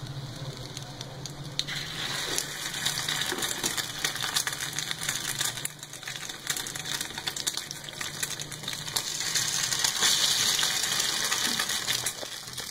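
Chicken shami kebabs shallow-frying in oil in a pan: a steady crackling sizzle that becomes denser about two seconds in.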